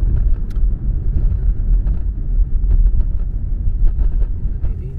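Car driving, heard from inside the cabin: a steady low road-and-engine rumble, with a few faint clicks.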